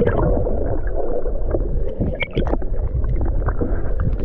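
Steady low rumble of a fishing boat at sea, with scattered short knocks and clatters on deck.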